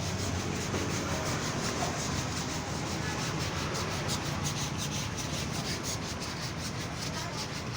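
Quick, repeated scrubbing strokes, as of a brush or cloth rubbing over a motorcycle during washing, over a steady low hum.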